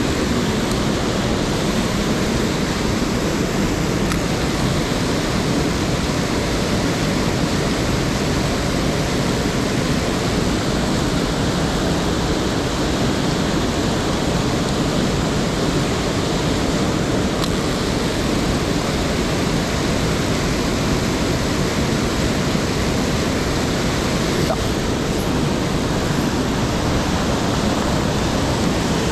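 Mountain stream's water rushing, a steady even noise.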